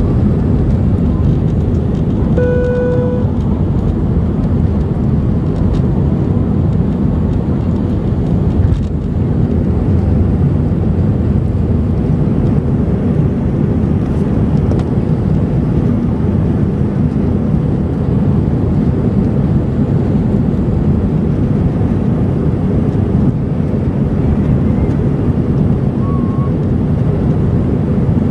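Steady low rumble of a jet airliner's engines and airflow, heard from inside the cabin at an even level. A single short cabin chime sounds about two seconds in.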